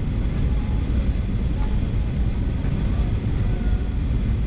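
Steady low rumble of engine and airflow noise inside the cabin of a Boeing 737-800 airliner.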